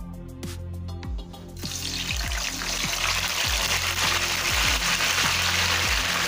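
Cocoyam slices sizzling hard in hot cooking oil. The sizzle starts suddenly about a second and a half in and grows louder, over background music with a steady beat.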